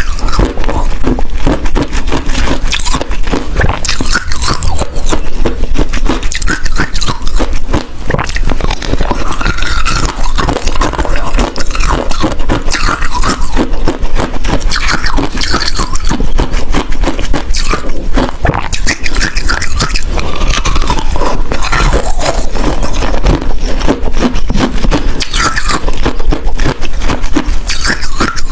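Ice being bitten and chewed close to the microphone: a dense, continuous crunching and crackling.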